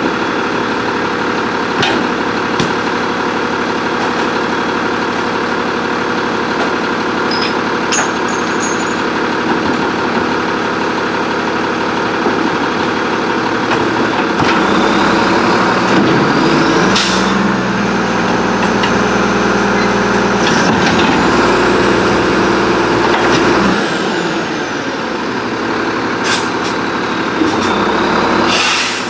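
Garbage truck's diesel engine running, speeding up about halfway through and holding higher for several seconds before dropping back, with a short air-brake hiss about halfway through and another near the end.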